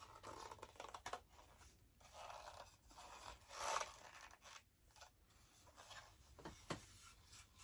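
Faint scraping and rubbing as the parts of a toy high chair are handled and fitted together during gluing, with two light clicks near the end.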